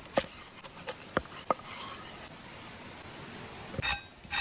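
Cooking utensils knocking and clinking: a few sharp clicks, then a ringing clink near the end, over a faint steady hiss.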